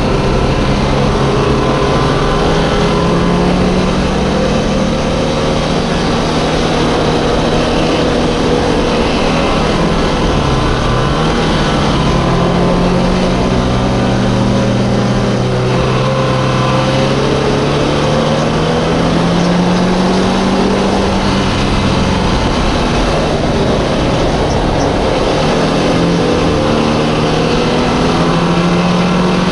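The MGB race car's B-series four-cylinder engine heard on board, running hard as it laps, its revs rising and falling through the gears and corners, with a quick drop and climb about ten seconds in.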